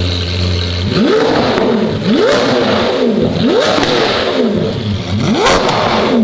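V12 Lamborghini Aventador engine with a race exhaust, idling for about a second and then revved in four quick blips, each one rising in pitch and falling back.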